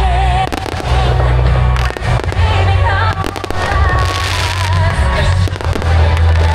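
Fireworks going off in a rapid string of bangs and crackles, with deep booms, over loud music.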